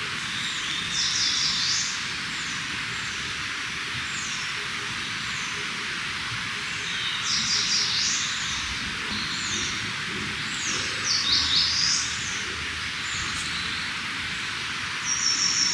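Songbird singing in short phrases of quick high notes, three louder phrases about five seconds apart with single chirps between, over a steady background hiss.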